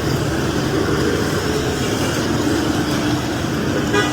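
A vehicle engine running steadily with a low rumble, with a brief higher tone right at the end.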